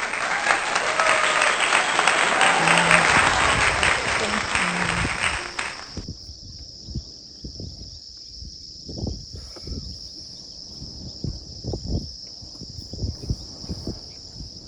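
A loud rushing hiss for about the first six seconds, which cuts off suddenly. After it, insects chirr steadily, with scattered low thumps.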